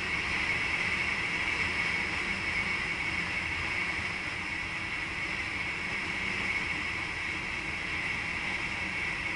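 Steady running noise in the driver's cab of a VIRM double-deck electric intercity train: an even hiss with a steady high hum.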